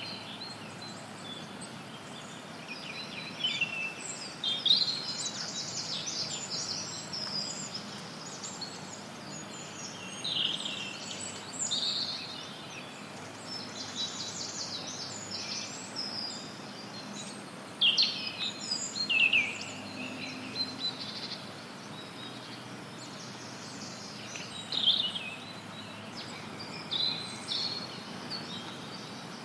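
Forest birds singing and chirping in short, scattered bursts of quick high notes that come and go every few seconds, over a steady hiss of added white noise.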